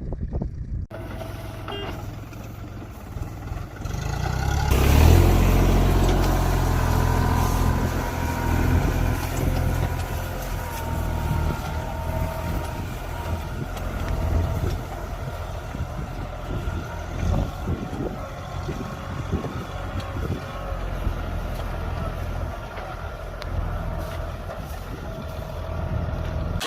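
Small tractor engine running steadily under load, with an abrupt change about a second in and louder from about five seconds in.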